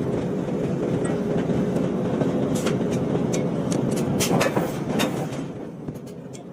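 Forging-shop machinery din: a steady rumble with scattered sharp metallic clinks and clanks, clustered about four to five seconds in, easing slightly near the end.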